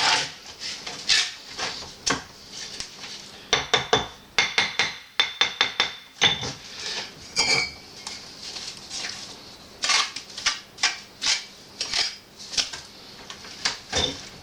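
Steel bricklaying trowel scraping and tapping on mortar and brick, many short clinks and scrapes, with a quick run of ringing taps a few seconds in, as the mortar bed under the chimney flange is filled in and the bricks are set.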